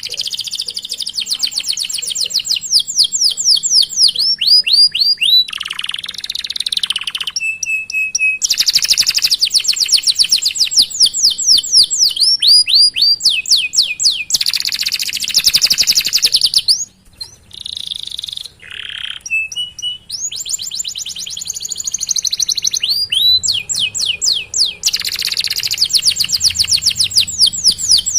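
Domestic canary singing a long, continuous song of rapid rolling trills: runs of fast repeated down-sweeping chirps that change to a new phrase every few seconds, with a short break about two-thirds of the way through.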